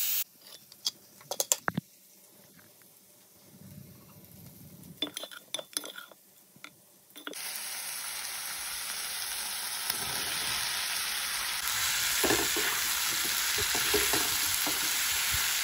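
A few sharp clinks and knocks of cookware, then from about halfway a steady sizzle of onion-tomato masala and sliced mushrooms frying in an oiled non-stick pan. A spatula stirs and scrapes through them.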